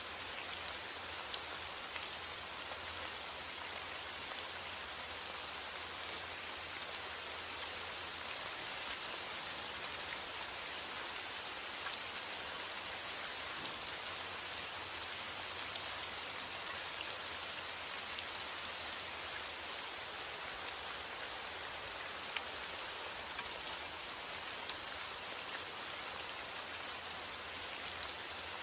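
Steady rain: an even hiss with scattered individual drops ticking.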